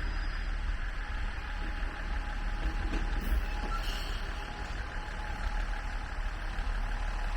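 Steady low rumble of vehicle noise, with a faint steady high tone through most of it.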